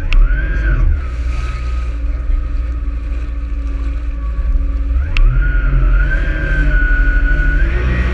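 Jet ski engine running, its high whine rising and falling in pitch over a heavy low rumble, with two sharp clicks, one at the start and one about five seconds in.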